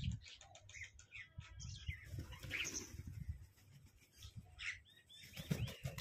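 Birds chirping in short, quick calls, with several brighter calls about halfway through and again near the end, over low thumps and rustling.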